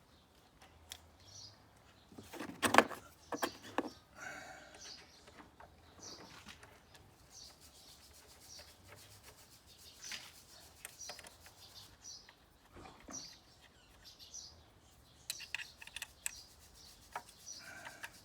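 Small birds chirping on and off in the background, with the clicks and knocks of hand tools on the engine as the cover's fixing bolts go back in. The loudest knock comes about three seconds in.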